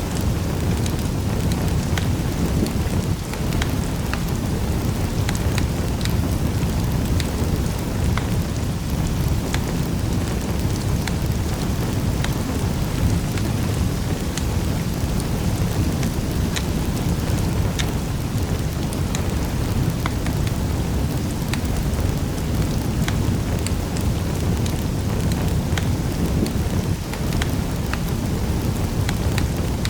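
Wood fire in a fireplace crackling, with a steady low rumble of the burning and scattered sharp pops and snaps throughout.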